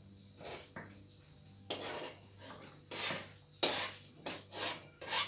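Kitchen knife dicing onions on a chopping board: a run of uneven cutting strokes, roughly two a second.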